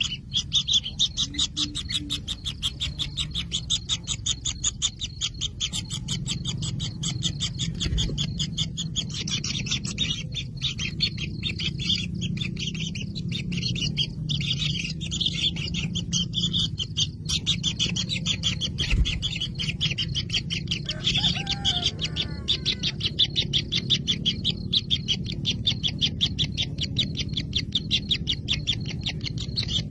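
Kingfisher nestlings in the nest burrow making a continuous chorus of rapid, high clicking calls. A low hum runs beneath it, and a few short calls that slide in pitch come about two-thirds of the way through.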